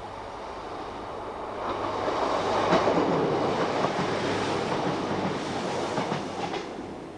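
A two-car diesel multiple unit passes close by at speed. The rumble of its engine and wheels swells over the first two seconds and holds, with a few sharp clicks as the wheels cross rail joints. The sound fades away near the end.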